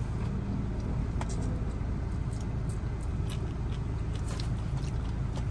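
Steady low hum of a stationary Peugeot car's idling engine heard inside the cabin, with a few faint clicks of a small dog chewing chicken.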